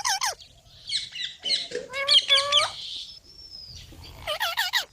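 Green parrot calling: bursts of short, quickly repeated chirping calls, three groups in all, with a single short whistle that falls away between them.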